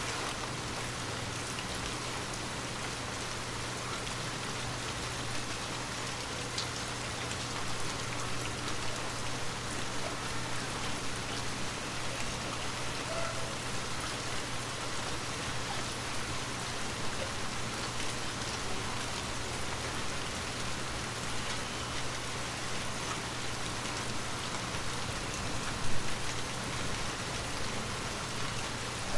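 Steady rain pattering on a window pane, a continuous even hiss of drops with a faint low hum beneath. Near the end comes one sharper, louder tap.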